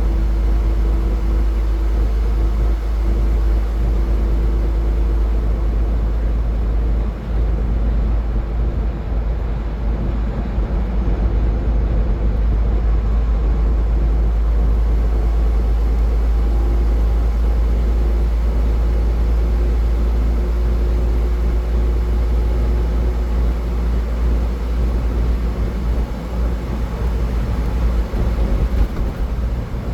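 Car travelling at highway speed: steady road and tyre noise over a deep, constant low rumble.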